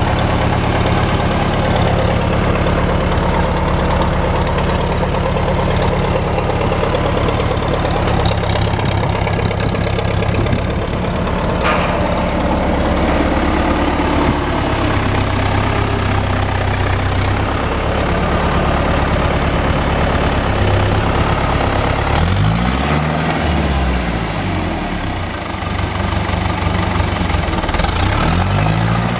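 John Deere 2350 tractor's diesel engine running steadily at idle, its speed shifting briefly twice near the end.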